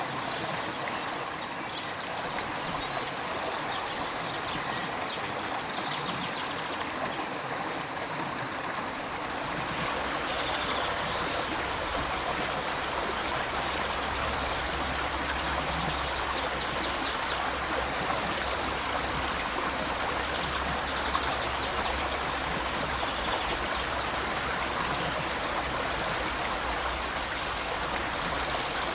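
River water rushing and burbling steadily. About ten seconds in the sound shifts and a low rumble joins the rush.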